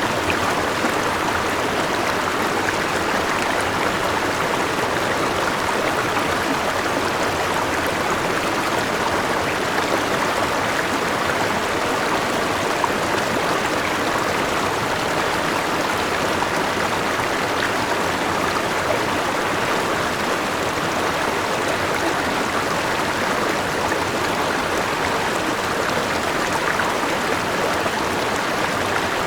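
River water flowing steadily: a continuous, even rush of moving water with no breaks or distinct splashes.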